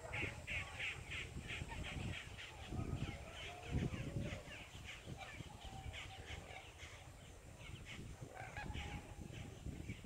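Birds calling in a dense run of short repeated calls, several a second. A low rumble rises about three to four seconds in.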